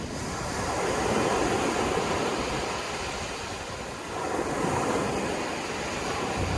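Sea waves washing onto the shore, a continuous surf noise that swells twice, about a second in and again past the middle.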